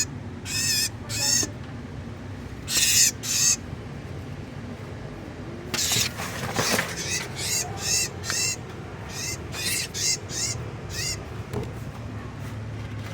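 A small bird held by a cat gives repeated shrill distress cries, short wavering squeaks that come in bursts throughout. A rustling scuffle sounds about six seconds in.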